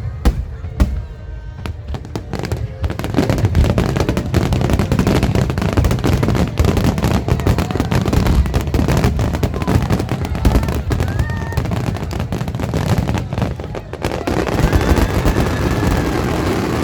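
Aerial fireworks going off in a rapid barrage of bangs and crackling, scattered at first and then continuous from about three seconds in.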